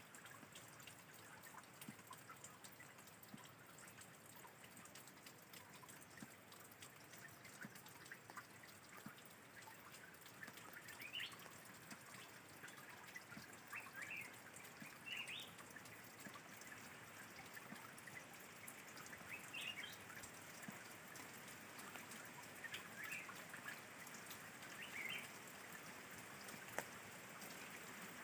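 Faint trickling and dripping of a small spring's low dry-season flow, with a bird's short high chirps every couple of seconds from partway through.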